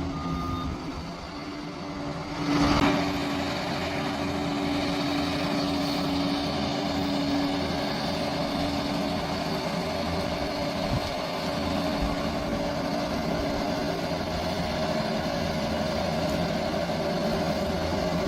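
Large bulldozer's diesel engine running steadily while working, with a brief louder surge about two and a half seconds in.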